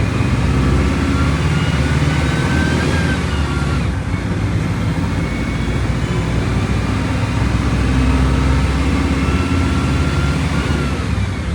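Volkswagen Volksbus 17.230 Euro 6 bus engine running steadily under way, a continuous drone with a thin whine that rises and falls. The sound dips briefly about four seconds in.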